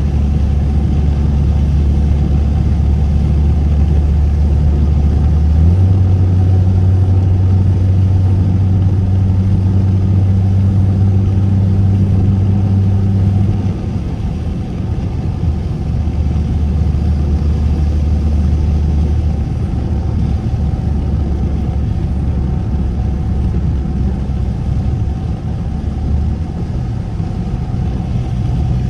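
Straight-piped car exhaust droning from inside the cabin while driving. The engine pitch steps up about six seconds in, drops back at about fourteen seconds, and then holds steady.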